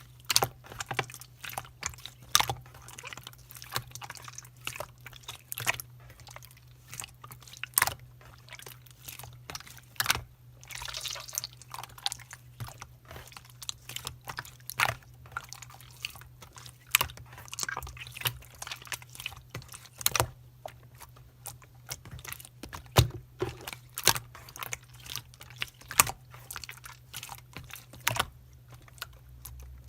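Slime being squeezed and poked by hand: irregular sticky clicks and pops, often several a second, over a faint low steady hum.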